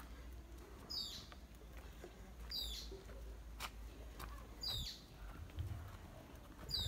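A bird calling over and over: a short, high call that falls in pitch, four times at intervals of about two seconds.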